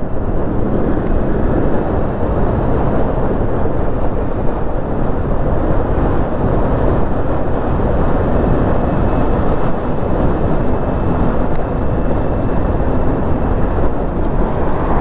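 Wind buffeting the microphone of a moving e-bike: a steady, loud rumbling rush of noise.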